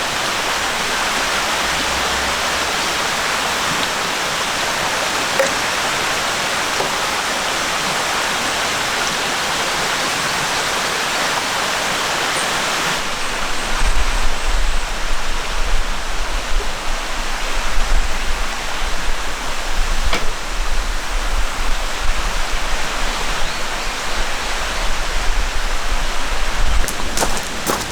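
Valley stream water flowing steadily. About halfway through, the sound changes: the hiss loses some of its top and a low, uneven rumble joins it.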